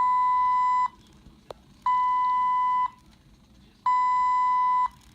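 A hospital infusion pump alarm sounding a steady, high electronic beep about a second long every two seconds, three times. There is a faint click between the first two beeps.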